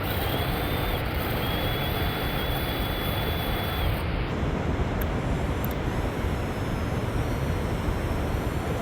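Steady rushing noise from a radio-controlled crawler truck being driven, with a thin steady high whine for the first few seconds that stops about four seconds in.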